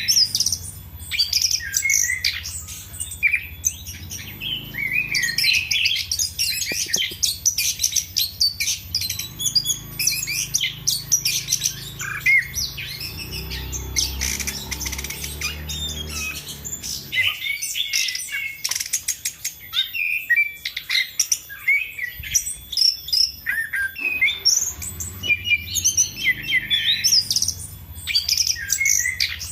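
Chestnut-capped thrush (anis kembang) in full, persistent song: a rapid, varied run of chirps, twitters and short whistled glides, broken only by brief pauses.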